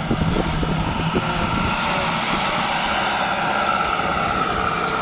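Kubota tractor's diesel engine running with its aftermarket VGS turbocharger howling, a steady high whine that grows stronger in the second half. A few clunks sound in the first second.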